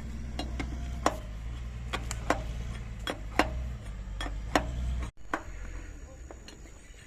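Hammer striking a steel excavator bucket pin to drive it: about a dozen sharp metal knocks at uneven intervals over a steady low machine hum. The hum drops away suddenly about five seconds in, and the knocks go on more faintly.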